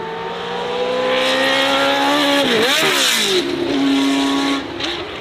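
Race car engine accelerating, its pitch climbing steadily. About two and a half seconds in, the pitch dips sharply and swings up and down as the car goes past with a rush of tyre and wind noise. It then settles to a lower, steady note.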